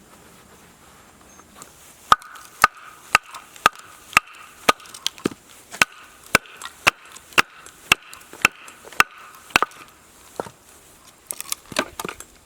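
Batoning firewood: a baton striking the back of a blade driven into a log, sharp wooden knocks about two a second that split the wood. A quick flurry of lighter taps comes near the end.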